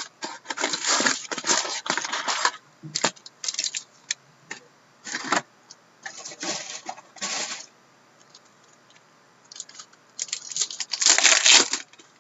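Upper Deck SPx hockey card box and pack wrappers being torn open and the cards handled: irregular bursts of crinkling and rustling with short quiet gaps, the longest and loudest near the end.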